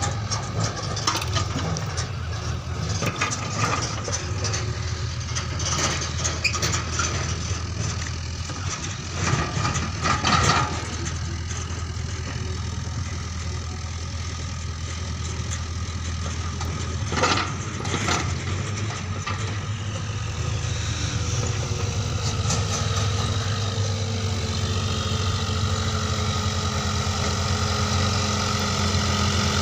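Heavy machine's diesel engine running steadily, with a few short knocks about a third and about three-fifths of the way through. In the last third a higher whine comes in and rises a little.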